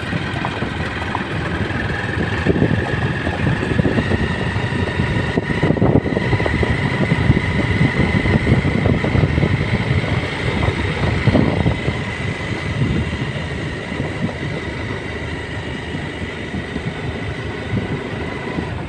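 Motorcycle riding along, its engine running steadily under heavy wind rumble on the microphone, with a faint steady whine.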